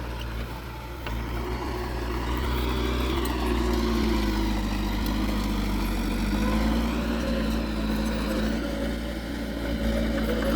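Diesel engine of earthmoving machinery running, its pitch shifting a little as it works, getting louder about a second and a half in.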